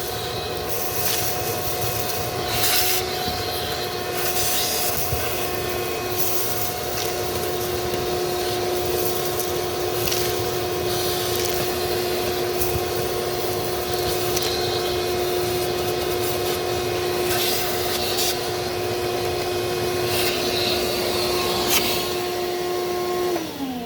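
Shop vac running steadily, vacuuming rat's-nest debris out of the truck's starter opening, with occasional short scrapes and clatters. Near the end it is switched off and its whine falls as the motor spins down.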